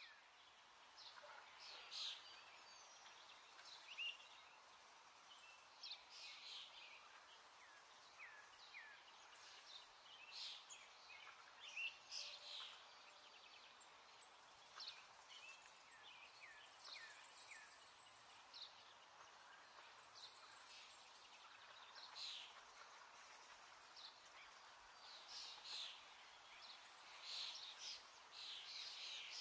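Faint birds chirping: many short chirps and small downward-sliding calls, scattered throughout, over a low steady hiss.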